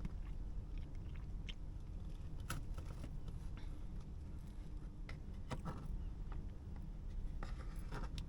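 Scattered light clicks and rustles, a few clustered together, over a steady low hum.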